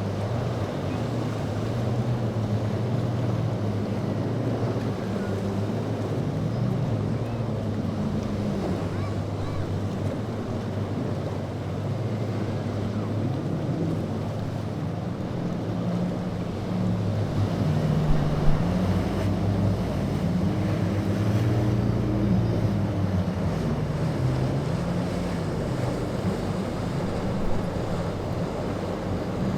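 Boat engines running, their pitch rising and falling with the throttle, over waves and wind rushing on the microphone. A brief knock is heard a little past halfway.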